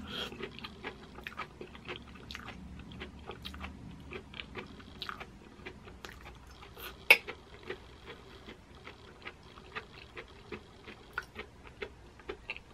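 Close-miked chewing of zucchini noodles in pesto: a steady run of small wet mouth clicks and smacks, with one sharper click about seven seconds in.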